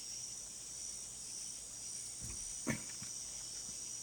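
Night insects, crickets, trilling in a steady high-pitched chorus. A short low sound comes about two seconds in, then a single sharp knock.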